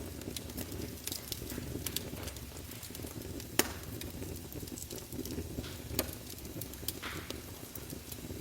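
Wood fire burning in a fireplace, logs crackling with a steady low rumble and scattered sharp pops, the loudest about three and a half seconds in and another near six seconds.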